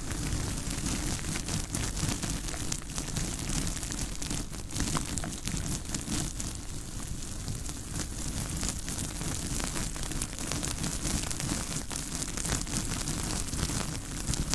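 Stones rubbed against each other close to the microphone: a continuous gritty scraping, dense with small clicks and crackles.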